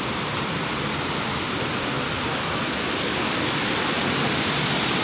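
The Leukbach waterfall rushing steadily, an even roar of falling water that grows gradually louder toward the end.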